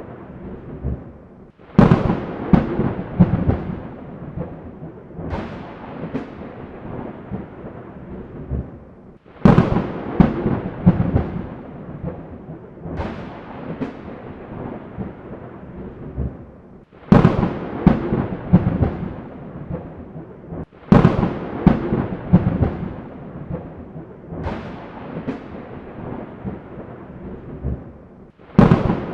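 Thunder cracking and rumbling again and again, a new clap about every four seconds, each starting suddenly and rolling away, over a steady hiss of rain.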